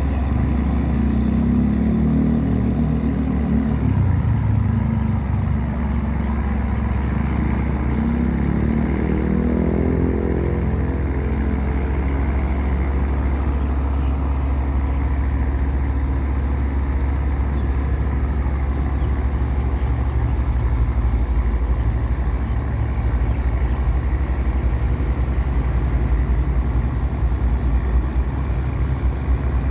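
Small wooden tugboat's engine running steadily under load while towing four heavy pontoons, a continuous low rumble. A higher engine note swells and fades around ten seconds in.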